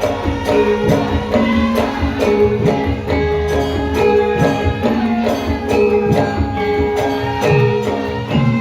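Traditional Javanese gamelan music accompanying a lengger dance: pitched metal tones repeating in a pattern over a steady percussive beat.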